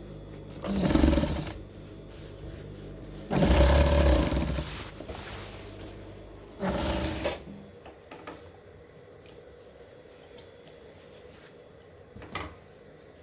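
Sewing machine stitching in three short bursts, each about a second long, with a steady motor hum between the first two. It is quieter after that, with a few small knocks near the end.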